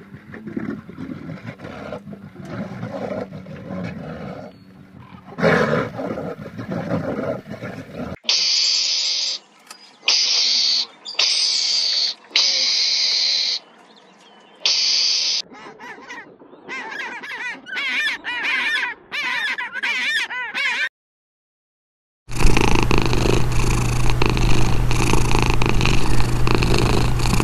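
A run of animal sounds. For the first eight seconds or so a brown bear growls low and rough. Then come a mongoose's shrill, repeated calls, each about a second long, and wavering chatter. After a short gap, a cat purrs loudly and steadily.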